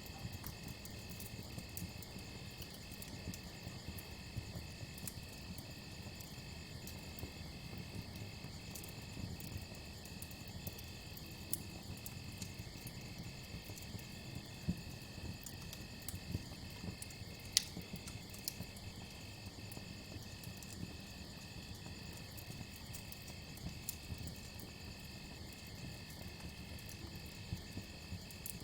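Crickets chirping in a continuous high trill with regular brief breaks, over a crackling campfire that gives scattered sharp pops, one louder pop a little past the middle.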